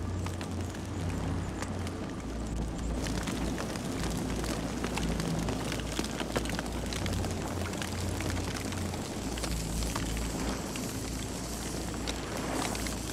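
Campfire burning, with steady dense crackling and popping of the wood over a low rumble of the flames.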